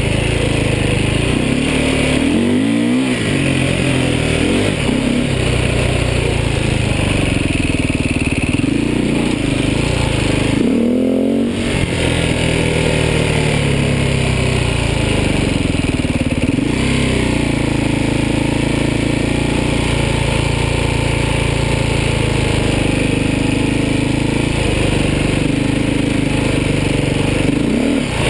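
Beta 450 RR enduro motorcycle's single-cylinder four-stroke engine running under way on a dirt trail. The engine note dips and climbs again several times, with the revs rising and falling.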